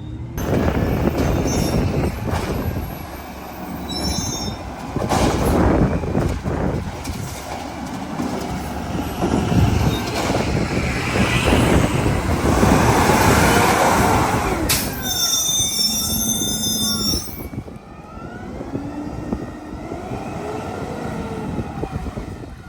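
Garbage truck at work: engine running with loud rumbling and clattering, and metal squeals and whining glides. A sharp high squeal comes about two-thirds of the way through, then the noise eases off.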